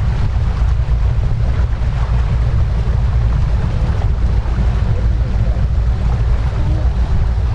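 Steady, loud wind noise buffeting the microphone aboard a boat under way, mostly a deep rumble with a hiss of wind and water above it.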